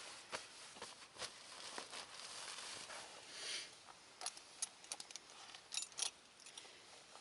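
Faint crinkling rustle with scattered sharp clicks and crackles, a short swell of rustling about halfway through and a few louder clicks soon after.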